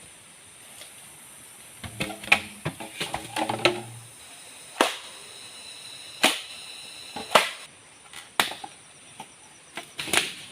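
A blade chopping into wood: a quick run of knocks, then about five single sharp strokes a second or so apart.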